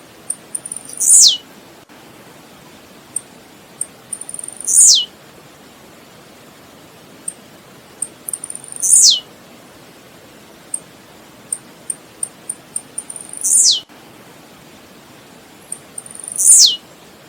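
Blue-black grassquit (tiziu) singing: five short, sharp notes that fall steeply in pitch, each led by a few quick high ticks, coming one every three to four seconds over a steady background hiss.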